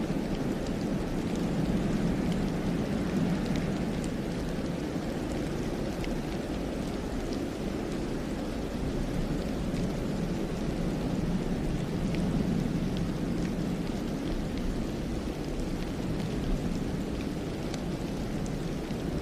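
Wind blowing through a snow-covered pine forest in a snowstorm: a steady low rush that swells and eases slowly, with faint scattered light ticks.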